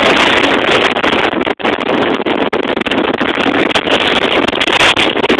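Strong wind blowing across the microphone: a loud, steady rushing noise that cuts out for an instant about a second and a half in.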